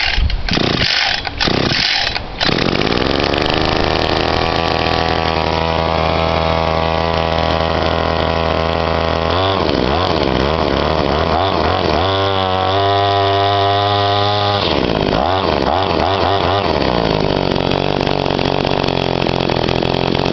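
Victa Tornado Plus 26cc two-stroke line trimmer engine cold-started on choke: a couple of seconds of pull-start cranking and sputters, then it catches and runs. Its speed rises, dips and recovers twice, then settles to a steady lower running note for the last few seconds.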